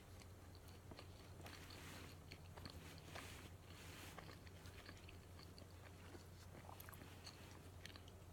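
Faint close-up eating sounds of a matcha donut being bitten and chewed, a run of soft mouth noises and small clicks, busiest in the first half.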